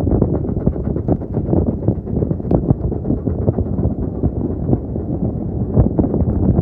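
Steady low rumble and irregular clatter of a moving railway carriage, with wind buffeting the microphone.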